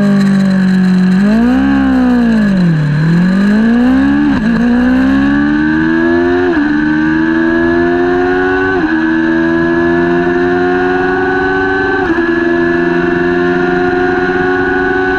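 Kawasaki Ninja 400 parallel-twin engine held at steady revs, then its pitch dips and climbs as the bike pulls away hard. It shifts up through the gears, with four upshifts each briefly dropping the revs, then runs at high revs with the pitch only slowly rising.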